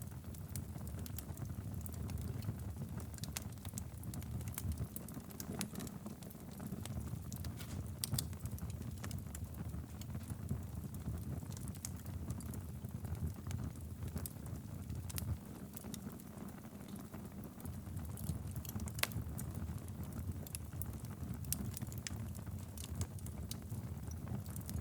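Wood fire burning steadily in a fireplace: a low rumble of flames with frequent sharp crackles and pops scattered throughout.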